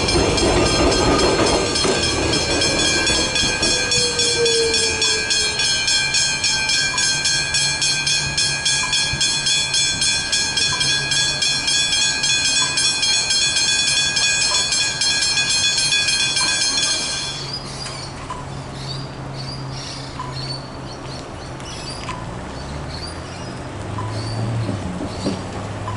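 Railway level crossing bells ringing with rapid repeated strikes as a train passes, then stopping abruptly about two-thirds of the way through. Faint regular ticks about once a second continue afterwards.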